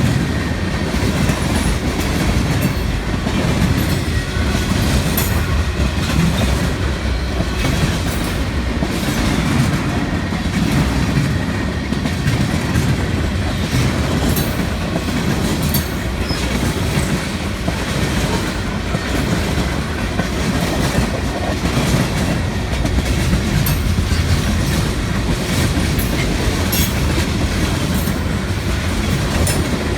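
CSX mixed freight train's cars rolling past with a steady rumble and rapid, uneven wheel clicks over the rail joints.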